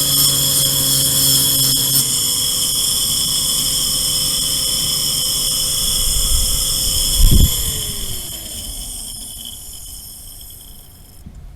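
Electric motor running steadily with a high whine and a loud thump about seven seconds in. It is then switched off and winds down, its pitch falling and its sound fading over the next few seconds.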